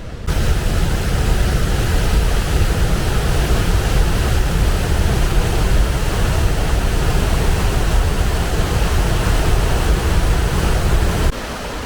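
Large waterfall rushing steadily close by: a dense wash of water noise with a heavy low rumble. It cuts in just after the start and cuts off abruptly near the end.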